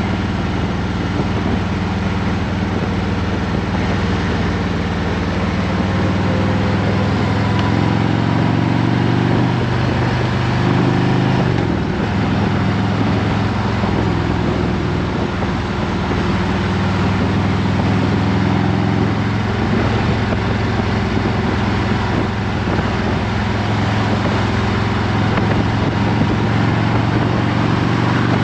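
Harley-Davidson Road Glide Special's V-twin engine running steadily under way, with wind rush over it. The engine note shifts about ten seconds in.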